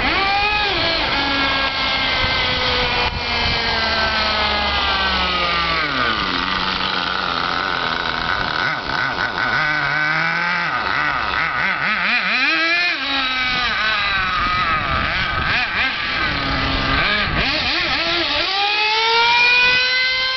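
Small engine of a 1:7 RC Audi V8 model car with a modified exhaust, running and revving. Its high, buzzy note rises and falls repeatedly, dropping low twice and climbing again near the end.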